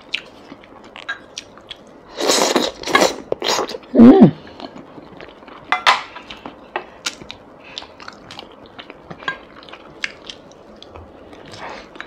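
Close-miked chewing of braised basa fish fat and rice: many small wet mouth clicks and lip smacks. About two seconds in come a few breathy rushes, and at about four seconds a short hummed sound falling in pitch.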